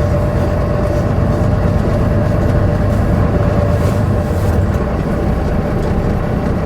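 Semi-truck diesel engine running steadily, a low rumble with a steady tone, heard from inside the cab.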